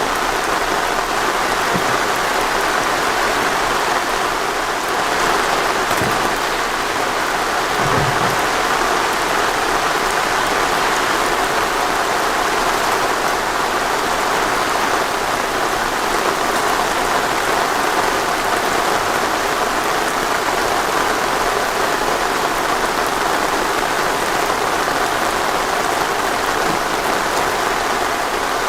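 Steady rain falling, a dense even patter, with a few faint low thumps in the first third.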